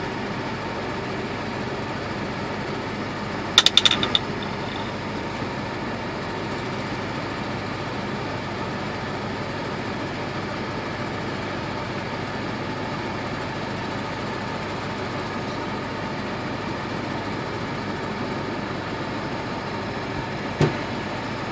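Vehicle engine idling steadily, heard from inside the cabin. A quick run of sharp, ringing knocks comes about four seconds in, and a single knock near the end.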